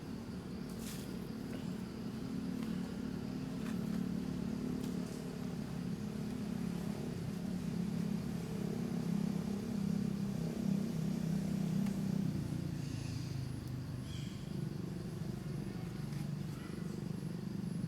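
A motor vehicle engine running, swelling and fading over several seconds. A thin steady high whine runs along with it, and a few short faint chirps come near the end.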